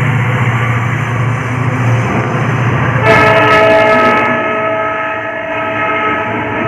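Train running on the rails with a steady low rumble. About three seconds in, an oncoming diesel locomotive rushes past close by on the next track with a loud burst of engine noise. At the same moment a multi-tone train horn sounds, held steady for about three and a half seconds, as the passing coaches follow.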